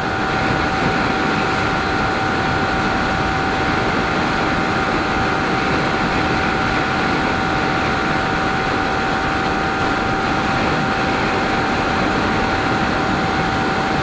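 Motorcycle cruising at a steady highway speed: heavy wind rush over the helmet-mounted microphone with the engine holding one unchanging note.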